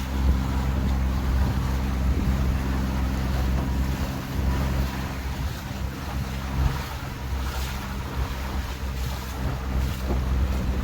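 Tour boat's engine running steadily, heard on board with water splashing and wind gusting on the microphone.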